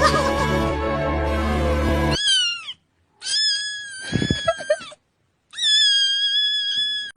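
Music that cuts off abruptly about two seconds in, followed by three cat meows separated by dead silence. The first is short and falls in pitch, the second has a few soft thumps beneath it, and the third is long and steady.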